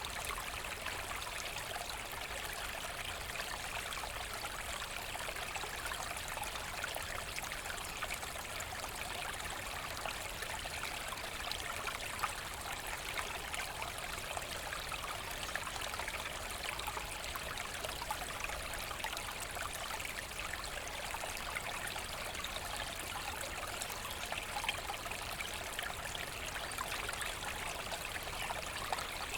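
Forest stream flowing steadily over stones, a continuous babbling and trickling of water.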